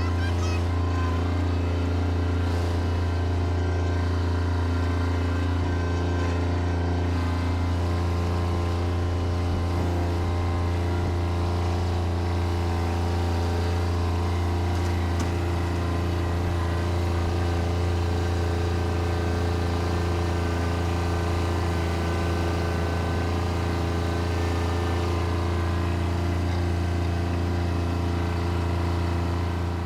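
Bobcat tractor engine running steadily under load, a deep even hum with a constant pitch.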